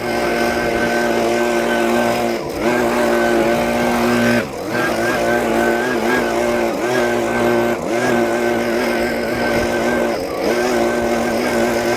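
An engine running steadily, its pitch briefly sagging and recovering a few times as if it were taking load, then running back up.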